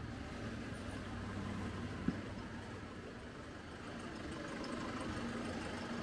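Car engines idling in a line of stopped traffic, a steady low hum, with one sharp click about two seconds in.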